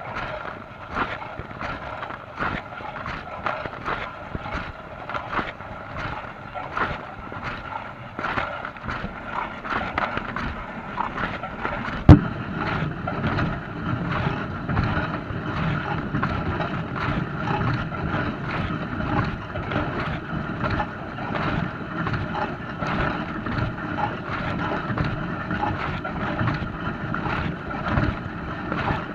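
Dishwasher running its wash cycle: water spraying and sloshing inside the tub in an even rhythm of about two to three pulses a second over a steady tone. One sharp knock about twelve seconds in.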